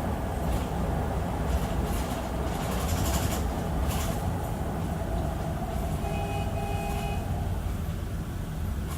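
2006 Hyundai Aerocity 540 bus running, a steady low engine rumble with body rattles clattering in the first half. About six seconds in, a high tone sounds for just over a second.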